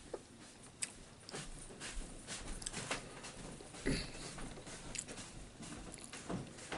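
A man chewing and eating food, with irregular small mouth clicks and smacks.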